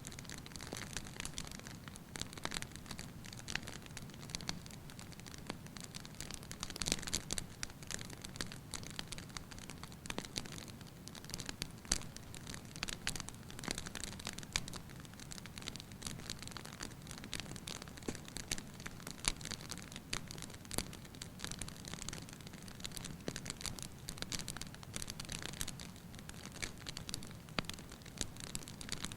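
Wood fire burning in an open hearth, crackling with many small irregular pops over a steady low hiss, a few pops sharper than the rest.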